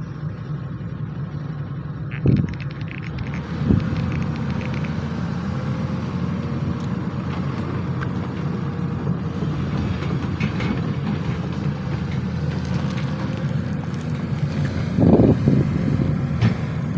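SANY SY215C excavator's diesel engine running steadily with a low drone, with a few short knocks about 2 and 4 seconds in and a louder stretch near the end.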